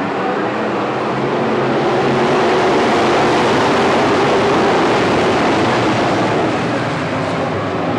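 Stock car engines running at racing speed, a loud steady drone that swells slightly toward the middle.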